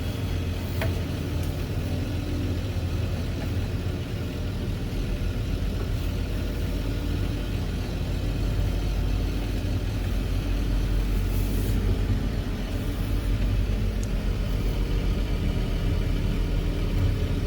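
Engine of a machine fitted with pallet forks, running steadily as a low rumble that grows a little louder in the second half, with a few faint clicks over it.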